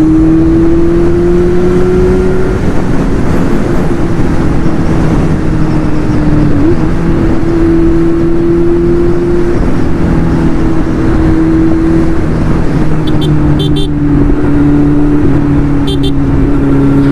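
Kawasaki Z900's inline-four engine with an aftermarket exhaust, cruising at a steady, near-constant note under a dense rush of wind. The pitch rises slightly over the first couple of seconds, hitches briefly about seven seconds in, and eases gently down near the end.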